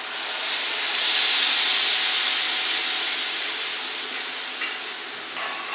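Hot ghee sizzling loudly as a wet cashew, paneer and sugar paste is poured into the non-stick pan. The hiss swells over the first second or so, then slowly dies down.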